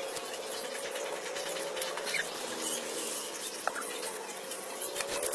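Paper and card being handled for a craft project: small scratches, taps and rustles come irregularly over a steady faint hum.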